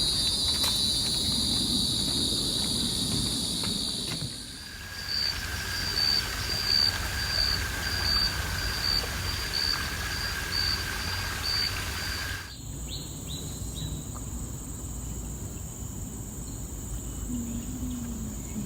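Insects calling. First comes a steady high-pitched trill. After about four seconds it changes to a run of chirps, about two a second, over a lower steady tone. After about twelve seconds it becomes a steady, very high-pitched whine. Low outdoor background noise runs underneath.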